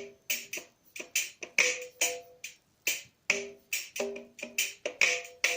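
Guitar playing short, choppy reggae-style chord strums along with a metronome click at 70 beats per minute. The chord changes about a third of the way in.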